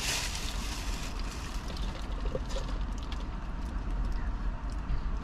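A steady low rumble with faint, scattered small clicks and rustles.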